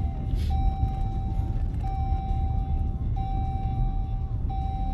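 Jeep's seatbelt warning chime: one steady mid-pitched tone sounding in long beeps about every 1.3 seconds, with short gaps between them. It signals an unbuckled seatbelt. Underneath is the low rumble of the Jeep driving.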